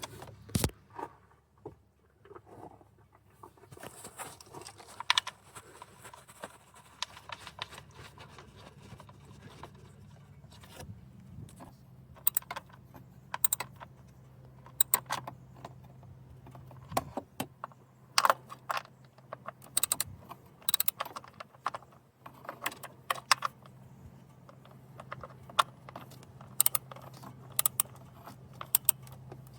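Irregular clusters of sharp metallic clicks and clinks from hand tools bolting down the coil packs on a Jeep Wrangler engine. A low steady hum runs underneath from about four seconds in.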